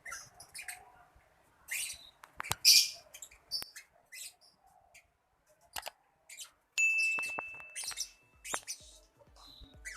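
Young lovebird chirping in short, scattered bursts of high chirps. Past the middle, a steady high tone is held for about a second and a half.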